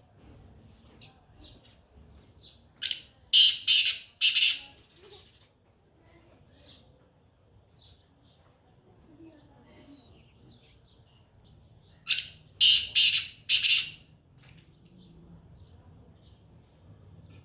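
Black francolin calling: two phrases of four loud notes each, the second about nine seconds after the first, with faint chirps in between.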